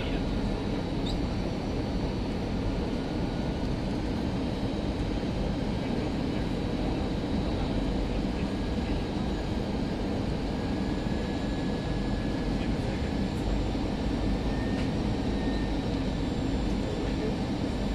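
Steady airliner cabin noise inside an Airbus A319: a continuous low rumble from the running engines and airflow, with a faint high whine above it, typical of the aircraft taxiing after landing.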